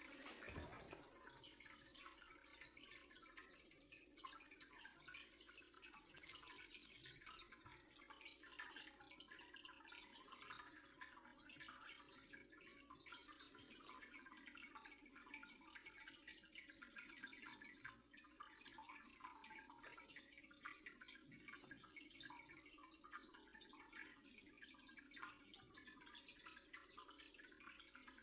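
Faint water trickling with many small drips, steady throughout, over a faint steady hum.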